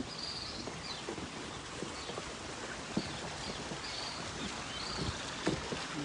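Footsteps on a dirt trail, irregular soft steps, with short high bird calls repeating about once a second over a steady background hiss.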